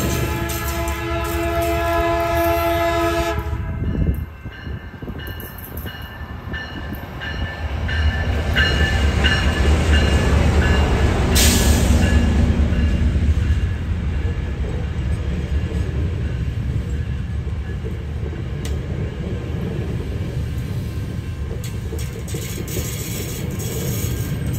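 Metrolink commuter train passing: the locomotive's horn sounds a multi-tone chord for about three and a half seconds and cuts off. The diesel's low rumble then swells as it goes by, followed by the steady rumble of the bilevel passenger cars rolling past.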